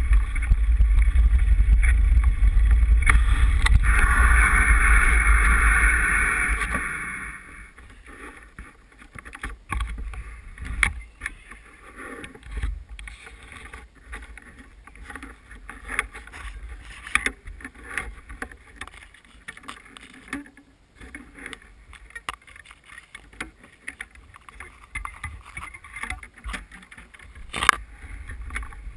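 Wind and riding rumble on a mountain bike's handlebar-mounted GoPro. The rumble dies away about seven seconds in, leaving a quieter stretch of scattered clicks and knocks.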